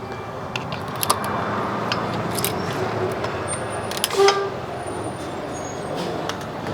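Impact wrench hammering steadily on a rusted-on axle hub nut, with scattered metallic clicks and clanks.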